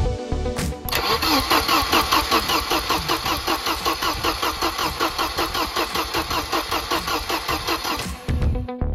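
Volvo 240 engine cranking on its starter motor, a steady rhythmic chugging of about five beats a second, while the K-Jetronic cold start injector fires. The cranking starts about a second in and cuts off near the end, with background music before and after it.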